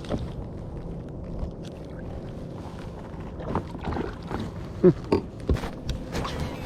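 Knocks and clicks against a fishing kayak's hull, coming thicker from about halfway through, with a short squeak about five seconds in. Under them is a steady low rumble.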